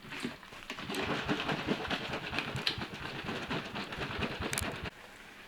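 A brush scrubbing rapidly against a wall in many quick, scratchy strokes, which stop abruptly about five seconds in.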